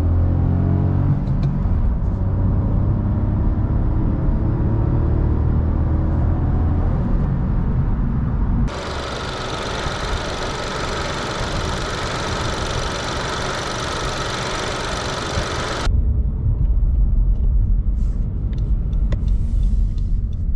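Honda 1.0 VTEC Turbo three-cylinder engine heard from inside the cabin, pulling under acceleration with its pitch rising. About nine seconds in it cuts to the same engine idling steadily under the open bonnet, a brighter, hissier sound. Near the end it switches to a deep cabin rumble at low road speed, with a few faint clicks.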